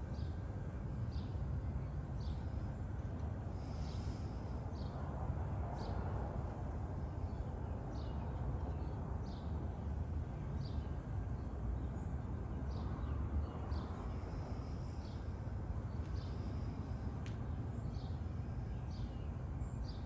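Steady low outdoor rumble with a small bird's short, high chirps repeating roughly once a second.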